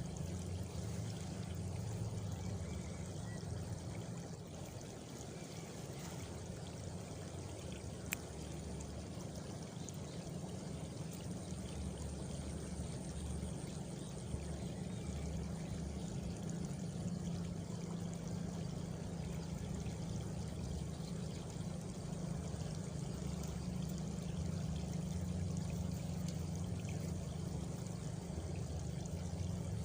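Steady flowing, trickling water, with crickets chirping high and faint over it.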